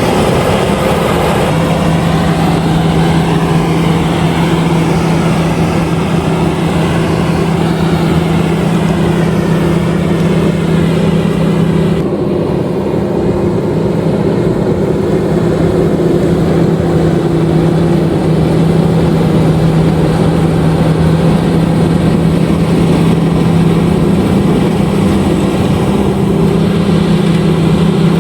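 LOVOL RG130EVO combine harvester running steadily, a loud continuous engine drone with a wavering higher machinery whine over it; the higher whine fades about twelve seconds in while the drone carries on.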